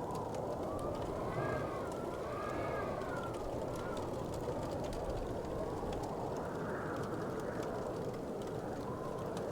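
Wood fire burning in a fireplace: a steady low rush with small scattered crackles and pops. Over roughly the first four seconds a faint wavering whistle rises and falls.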